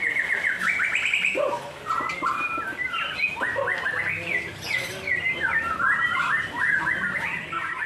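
White-rumped shamas (murai batu) singing: continuous rapid runs of varied whistled notes and trills.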